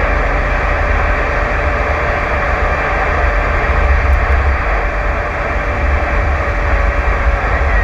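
Steady rushing static from an open radio transmission keyed with no voice on it, heard over the low rumble of the vehicle's engine and road noise.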